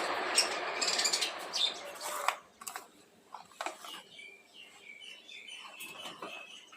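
Loud rustling with sharp clicks for about the first two seconds, then soft, short chirps from a pet lovebird with scattered small clicks.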